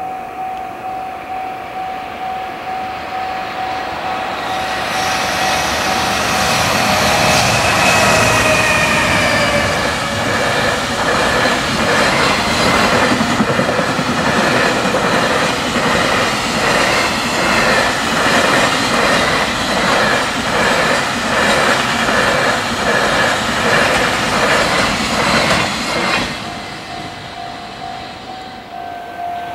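Japanese level-crossing bell ringing as a long JR freight train of container wagons approaches and passes at speed. Its sound swells, with a falling tone about eight seconds in as the locomotive goes by, then a steady rhythmic clatter of wheels over rail joints. The clatter stops suddenly about 26 seconds in as the last wagon clears, leaving the crossing bell ringing on its own.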